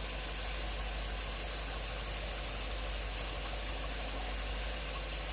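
Engine running at a steady idle on a Rochester two-barrel marine carburettor under test, with an even hiss over it.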